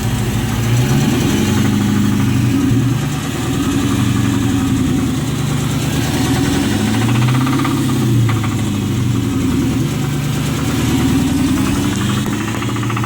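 The 5.7-litre Hemi V8 of a 2006 Dodge Charger R/T running and being revved in several slow rises and falls from idle. The engine has a knocking noise whose cause is unknown.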